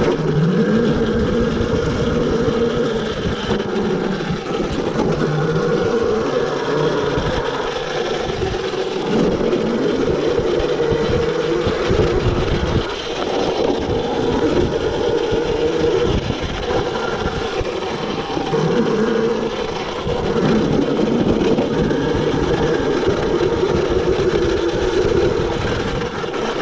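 Yozma IN10 electric dirt bike riding a trail: its motor whines continuously, the pitch rising and falling as the rider speeds up and slows down, over a rough low rumble.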